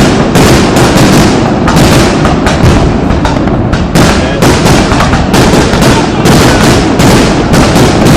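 Loud fireworks display with aerial shells going off in rapid succession, many overlapping bangs and crackles with hardly a break between them.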